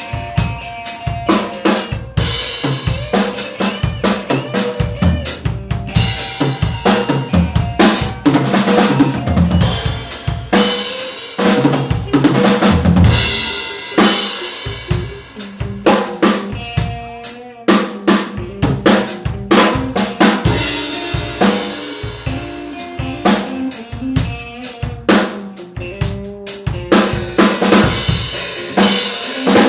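Improvised fusion-blues jam on guitar and drum kit: busy drumming on bass drum, snare and rimshots under held, bending guitar notes.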